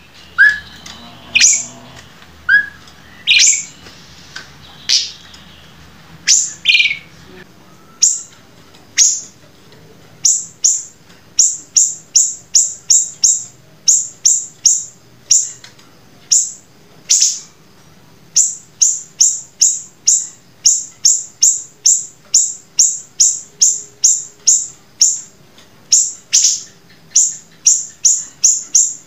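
A songbird calling in sharp, high, downward-sweeping notes, spaced out at first, then from about ten seconds in coming in a fast, even volley of two to three notes a second.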